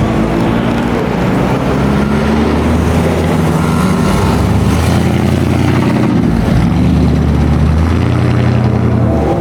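Classic car engine running at low revs, a steady low rumble whose pitch shifts slightly up and down.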